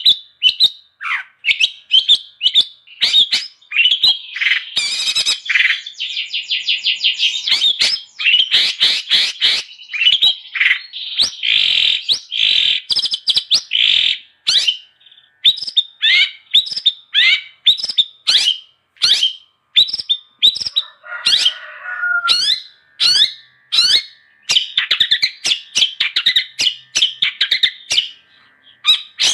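Long-tailed shrike (cendet) singing continuously: a fast, varied string of sharp, high chirps with rapid chattering runs, and a harsher, lower scratchy phrase about two-thirds of the way through.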